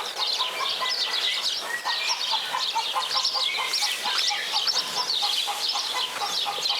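Birds chirping and twittering steadily, a dense run of quick high notes with short lower notes repeating underneath.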